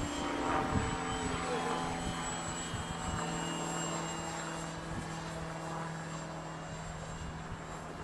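Model airplane's motor and propeller running at steady power with a droning hum and a thin high whine, fading slightly toward the end. Wind buffets the microphone.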